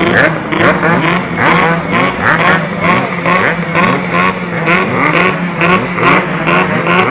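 Two-stroke motorcycle engines revved in quick, repeated throttle blips, the pitch sweeping up again and again, over a steady idle.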